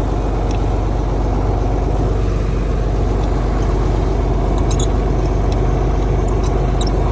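An engine running steadily with an even low hum, with a few faint high clicks or squeaks about two-thirds of the way through.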